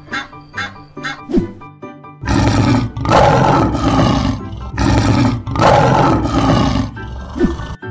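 Lion roar sound effect: a string of loud, rough roars starting about two seconds in, over bouncy children's background music with a plucked, evenly spaced beat.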